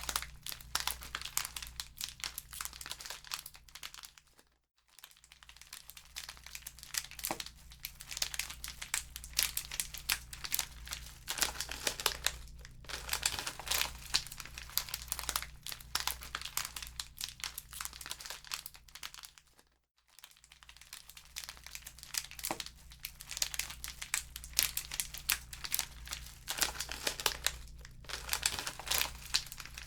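Wood fire in a fireplace crackling, with dense, irregular pops and snaps over a steady low rumble. The sound fades out briefly twice, about five seconds in and again around twenty seconds in.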